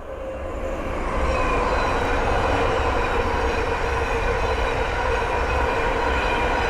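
Thameslink Class 700 electric multiple unit passing, growing louder over the first second and then holding loud and steady: the rush of the train with a steady whine of several tones over it.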